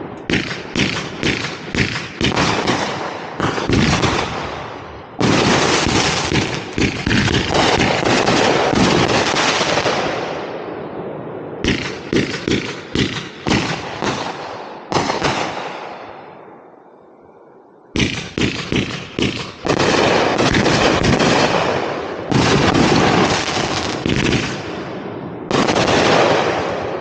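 Aerial fireworks launched from ground tubes, firing in fast volleys: rapid bangs and cracks of launches and bursts overlapping in dense runs. The volleys fade about two-thirds of the way through, then a new barrage starts suddenly.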